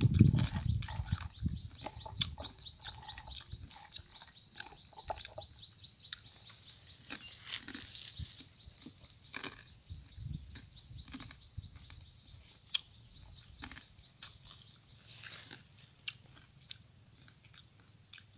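People chewing crunchy fried macaroni, with scattered light clicks of chopsticks against a plastic basket. Louder low thumps in the first couple of seconds, then quieter crunches and clicks.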